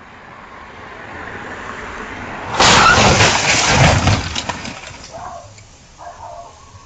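A vehicle's noise growing louder, then a sudden crash about two and a half seconds in, with glass breaking and debris clattering for about two seconds as it dies away.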